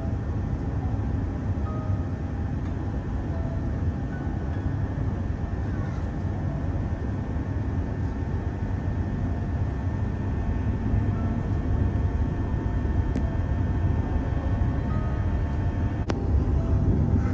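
Electric suburban train running between stations, heard from inside the carriage: a steady low rumble of wheels on track with faint steady motor tones, growing slightly louder, and a couple of sharp clicks in the second half.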